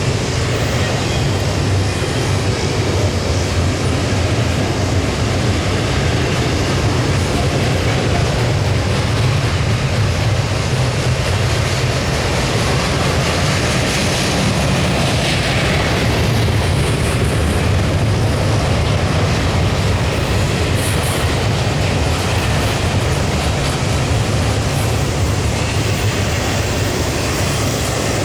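Cars of a double-stack intermodal freight train rolling past, a steady, loud noise of steel wheels on rail that holds even throughout.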